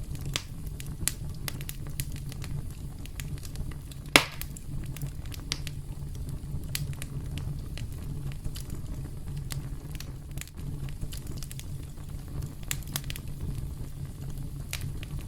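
Campfire burning with a steady low rumble and scattered sharp crackles and pops of burning wood, the loudest pop about four seconds in.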